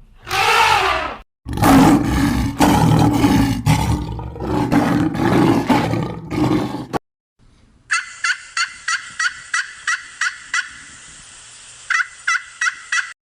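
Animal calls in three short pieces: a brief call that rises and falls in pitch, then a rough, choppy call lasting several seconds, then a quick run of sharp chirps about two a second that pauses once and starts again.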